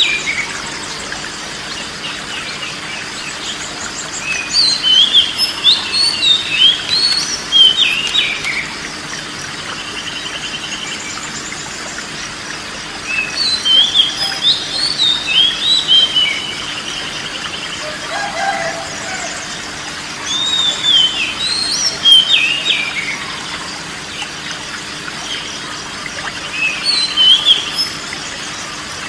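Oriental magpie-robin (kacer) singing: four bursts of quick whistled notes and trills a few seconds each, separated by pauses, over a steady hiss.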